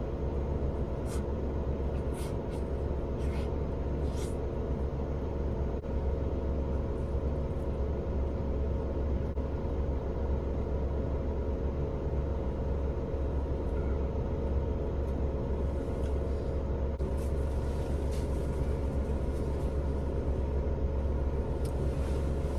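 Suzuki Every kei van's engine idling with a steady low hum, heard from inside the cabin, with a few brief rustling sounds in the first few seconds and a spell of soft hiss near the end.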